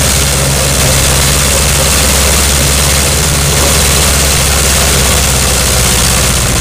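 Propeller-driven aircraft piston engine running steadily on a test stand: a loud, even low engine note under a dense rushing noise.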